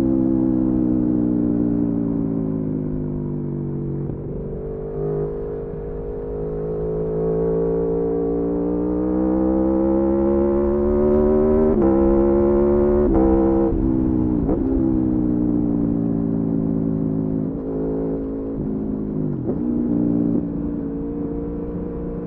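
Aprilia Tuono V4 motorcycle's V4 engine under way, its pitch climbing slowly as it pulls through a long stretch in gear, then dipping and jumping sharply several times past the middle as gears are changed. A low rush of wind runs underneath.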